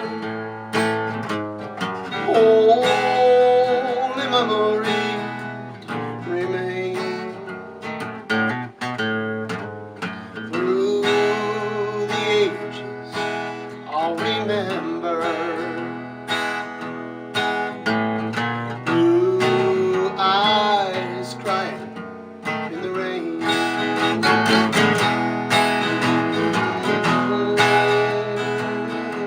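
Acoustic guitar playing a slow country ballad, strummed and picked, with a melody line of long, wavering notes over the chords.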